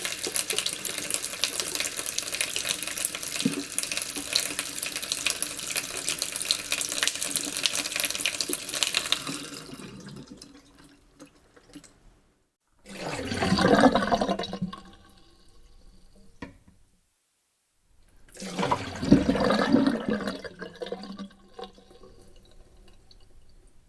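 Kitchen sink with the tap running and splashing steadily, fading out about ten seconds in. After a short silence, a kitchen sink drain close up gurgles in two separate bursts with a pause between them.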